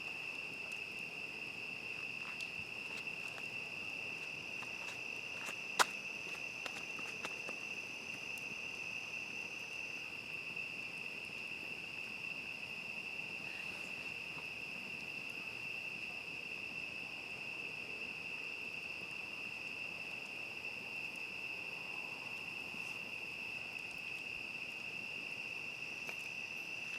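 Steady chirring chorus of crickets, with scattered crackles from a wood campfire and one sharp, loud pop about six seconds in.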